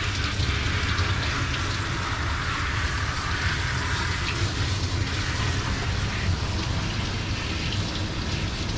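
Steady spray of running water from a dog-wash hose, with a low hum underneath.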